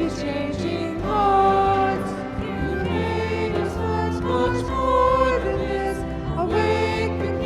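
Church music: voices singing long, held notes over a steady instrumental accompaniment with a sustained bass.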